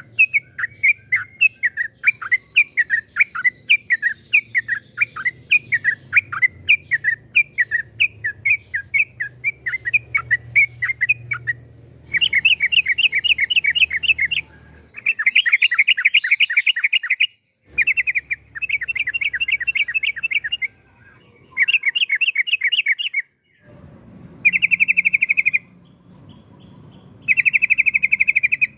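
Yellow-vented bulbul singing. It starts with a run of separate sweeping whistled notes, about three a second, and from about twelve seconds in it gives rapid trills in bursts of one to three seconds with short breaks between.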